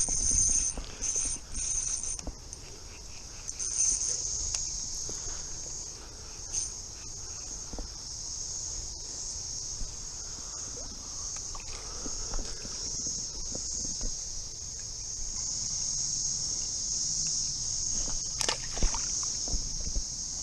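Steady, high-pitched buzzing chorus of cicadas. A few knocks and rustles sound near the start, and a sharp click comes near the end.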